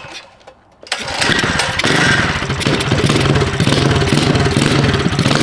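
Mega Moto minibike's governor-deleted 196cc single-cylinder engine, straight-piped, catching about a second in on its first start after a rebuild and running loudly, its revs rising and falling.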